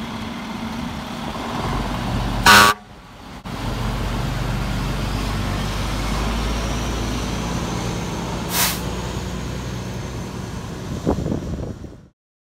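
Truck engine running steadily, with one short, loud horn blast about two and a half seconds in.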